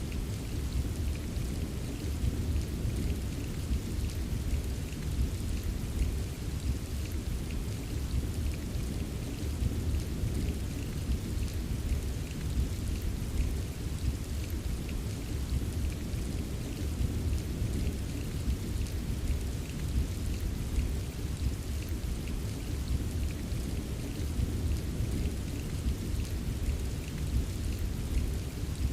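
Steady rain with scattered taps of individual drops, over a continuous low rumble. The sound holds even, with no single thunderclap standing out.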